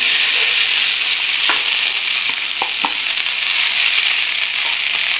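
Cooked chana dal sizzling steadily in a hot non-stick kadai as it is stirred, with a few light clicks of the spoon against the pan in the middle.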